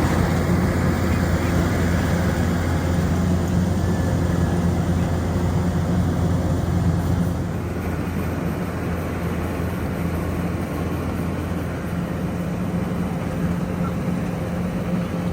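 Engine of a rice harvesting machine running steadily with a deep, even hum; it gets a little quieter about seven and a half seconds in.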